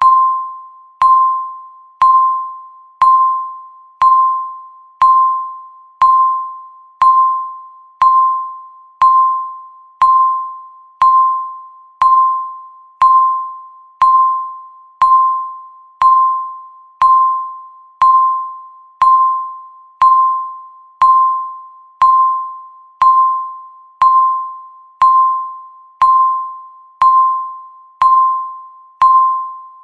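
Countdown timer's tick sound: a sharp electronic beep-tick once a second, each a bell-like tone that rings and fades before the next.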